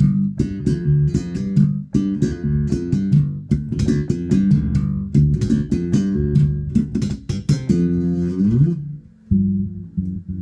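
Spector Euro 4 Classic electric bass with active EMG pickups, played through a Markbass Little Mark 58R combo amp on a scooped EQ setting: a fast run of notes with sharp, percussive attacks. Near the end a note slides up in pitch, there is a brief break, then playing resumes.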